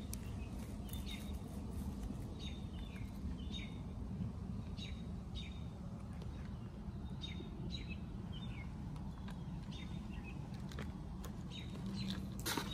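A bird chirping repeatedly, short downward-sweeping chirps about once a second, over a steady low rumble. A sharp knock comes near the end.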